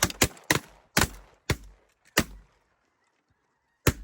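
Several hunters' shotguns firing a rapid, ragged volley of about six shots in the first two seconds or so, then a single last shot near the end.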